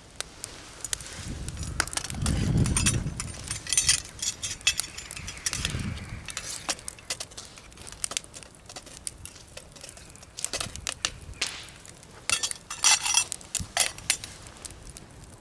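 Metal cooking pot and lid over a campfire clinking and clattering as the stew is checked and stirred, with scattered sharp clicks; two clusters of ringing clinks stand out, about four seconds in and again near the end.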